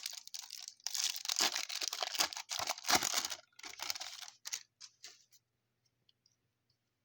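A trading-card pack's foil wrapper being torn open and crinkled for about two and a half seconds, followed by a few light clicks and rustles of cards being handled, which stop about five seconds in.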